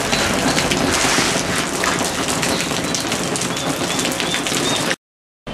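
Steady rain-like hiss with a patter of small ticks, with a few faint bird chirps about three and a half seconds in; it cuts off abruptly just before the end.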